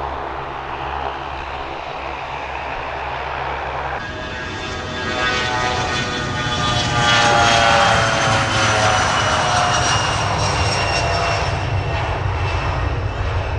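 Airliner engines running. About four seconds in an edit cuts to a closer, louder aircraft whose engine whine slides down in pitch as it goes by.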